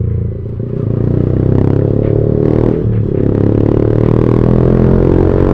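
Single-cylinder motorcycle engine and exhaust running under way at steady revs. The throttle eases just after the start and opens again about a second in. A few sharp clattering knocks come through in the middle.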